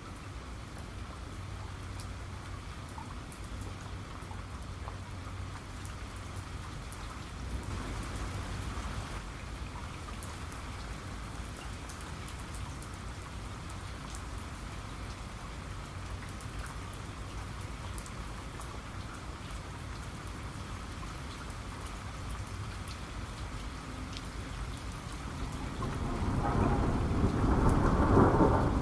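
Steady rain falling, with scattered drop ticks over a low rumble. Near the end a roll of thunder swells up and grows loud.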